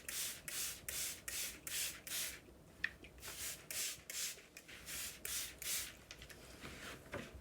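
A small scraper stroking back and forth along the wetted, rice-paste-glued edges of a wooden shoji screen frame, lifting off the old paper in quick strokes about three a second. The strokes pause briefly after about two seconds, resume, and die away near the end.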